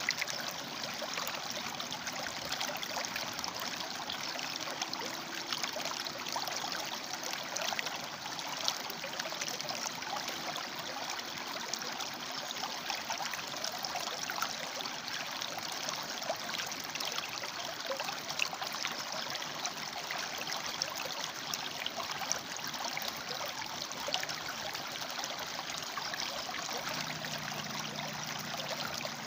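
A river flowing and splashing over and between rocks, a steady rushing with many small splashes.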